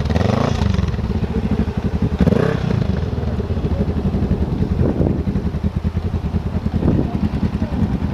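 Motorcycle engine running steadily at low revs with its chain thrown off, a rapid even pulse, with a few short clattering noises over it.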